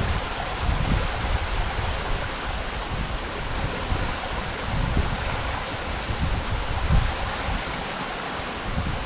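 Waterfall: a steady rush of falling water, with irregular low gusts of wind buffeting the microphone.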